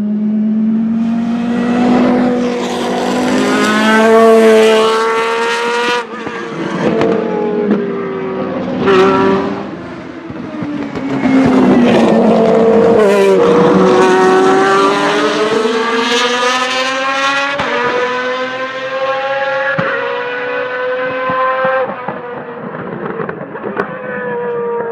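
Lamborghini Murciélago R-SV GT1 race car's V12 engine revving hard on track, its pitch climbing and then dropping sharply at each gear change, several times over, with stretches where the revs sink as it slows.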